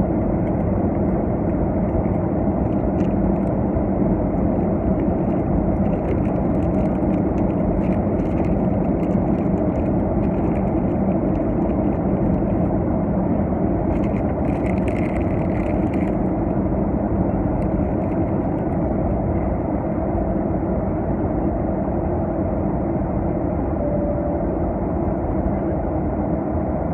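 Steady cabin noise of a twin-engine jet airliner climbing: a constant roar of engines and rushing air heard from inside the passenger cabin.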